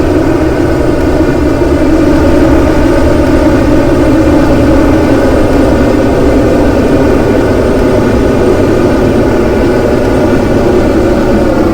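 Aircraft engines running loud and steady, with a low rumble under a whine of many tones; near the end their pitch begins to fall as they spool down.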